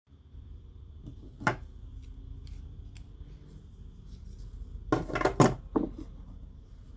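Metal hand tools clicking and scraping: one sharp click about one and a half seconds in, then a quick cluster of clicks near the five-second mark, over a steady low hum.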